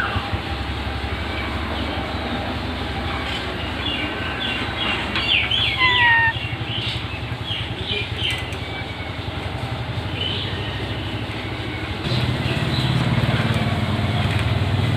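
A parrot's short chirps and whistles, with a falling whistle about six seconds in, over a steady low rumble that grows louder about twelve seconds in.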